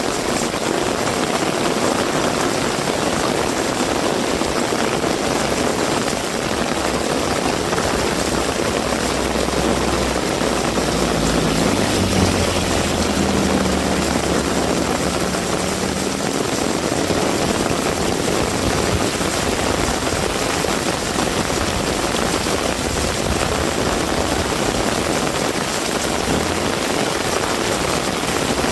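Heavy rain falling steadily. A vehicle's low engine hum comes up about ten seconds in and fades away a few seconds later as it passes.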